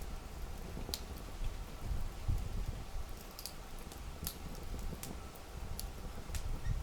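Wood fire crackling: sharp pops and snaps of burning wood, about one a second, over a low, uneven rumble.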